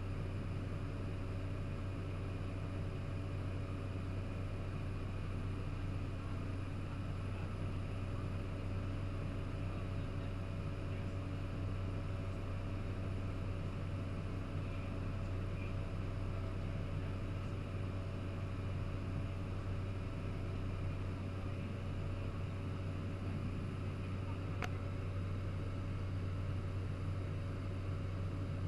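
Cessna 208B Caravan's Pratt & Whitney PT6A turboprop engine and propeller droning steadily in the cabin during the climb, a deep, even hum with no change in pitch.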